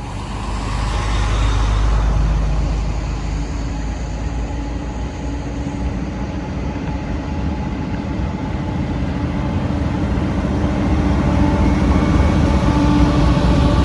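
Train rolling past, a steady heavy rumble with a few held tones over it, fading in at the start and building over the first couple of seconds.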